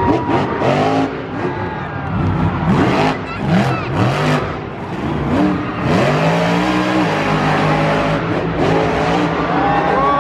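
Monster truck engines revving again and again, their pitch rising and falling, with more than one engine sounding at once.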